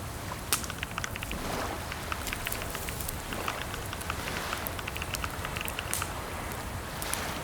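Typing on a computer keyboard: irregular runs of quick key clicks, with short pauses between the runs, over a steady background hiss.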